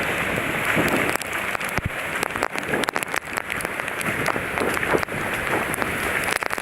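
Floodwater rushing in a fast torrent, with rain falling and sharp taps of raindrops hitting the microphone.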